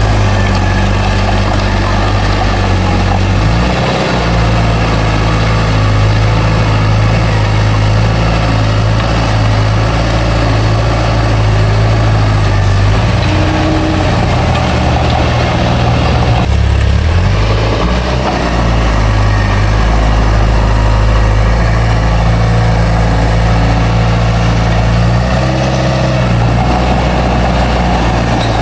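Heavy diesel engine of a bulldozer running under load, loud and continuous, its note shifting a few times as the machine works.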